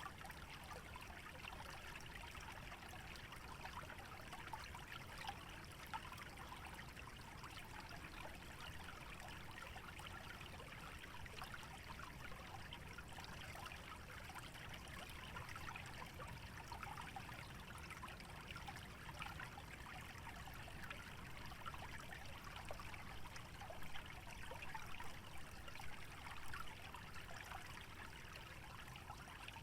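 Small stream trickling and burbling through a wetland, a steady fine patter of water over a low background rumble.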